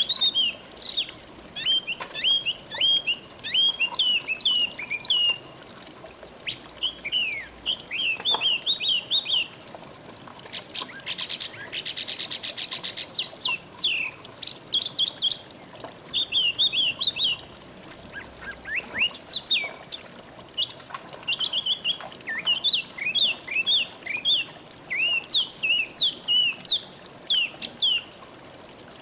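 Songbird singing in quick runs of short, sharp, downward-sweeping chirps, with a fast trill about eleven seconds in, over a faint steady hiss of flowing water.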